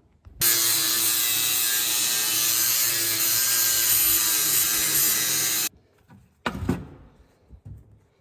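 Angle grinder running under load for about five seconds, grinding down a spot-welded sheet-metal seam, then cutting off suddenly. A single short knock follows about a second later.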